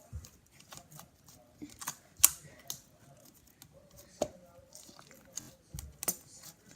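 Sticky, rubbery slime being squished and pulled by hand, giving scattered small clicks and pops, the sharpest about two seconds in.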